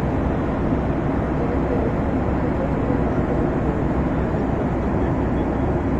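Airplane cabin noise in flight: the steady, even drone of engines and rushing air, strongest in the low range.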